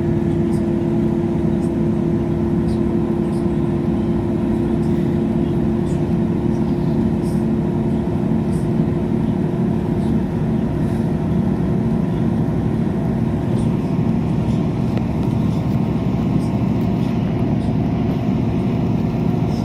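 Steady running noise inside a moving passenger train: a constant hum with a few held tones over low rolling noise from the wheels on the track.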